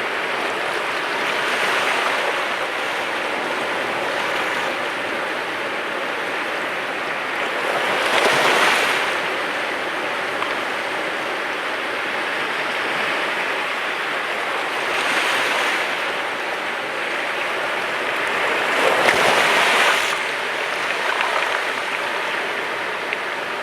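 Sea waves breaking on the shore over a steady wash of surf. Louder breakers come every several seconds, the strongest about eight and nineteen seconds in.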